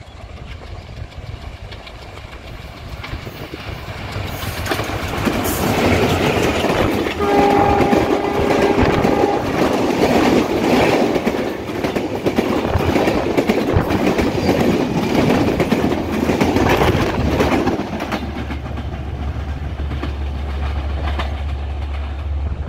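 Broad-gauge express train hauled by a WDM3A diesel locomotive passing at high speed. Its approach builds up and its horn blows for about two seconds as it nears. Then the coaches rush past with wheels clattering over the rail joints. Near the end this gives way to a steady low rumble.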